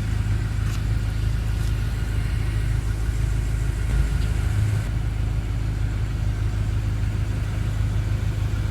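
2014 BMW M5's twin-turbocharged 4.4-litre V8 idling with a steady low drone. A faint click comes about a second in.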